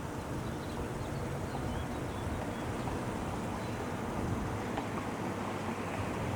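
Steady low hum under outdoor background noise, with a few faint, short high chirps.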